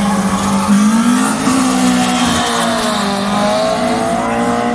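Two cars launching off a drag-strip start line and accelerating hard away side by side. The engine note climbs about a second in, then steps and glides in pitch as the cars shift through the gears.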